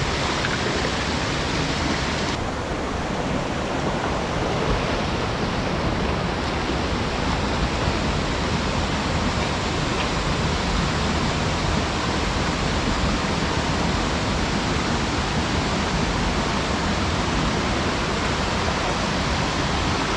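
Steady rushing noise with a low rumble, unbroken throughout.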